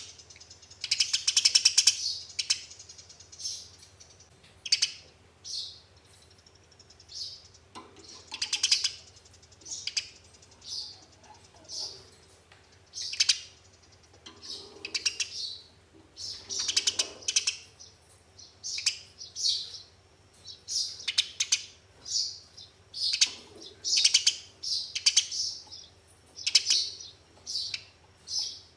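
Eurasian tree sparrows giving excited fighting calls: bursts of sharp chirps and several fast rattling chatters, repeated every second or two. A faint steady low hum runs underneath.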